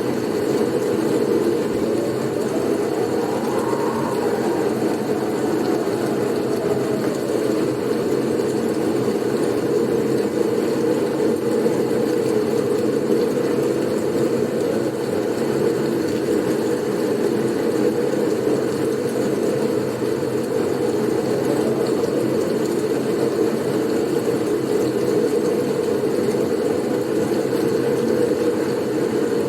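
Steady, low blizzard wind noise, with a faint whistling gust that rises and falls a few seconds in.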